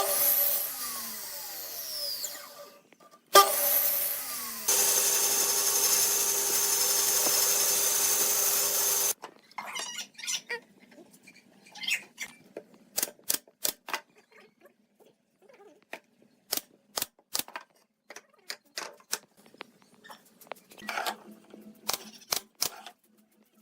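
A power tool starts and spins down with falling pitch, starts again and runs steadily for about four seconds, then stops about nine seconds in. After that come scattered sharp clicks and knocks.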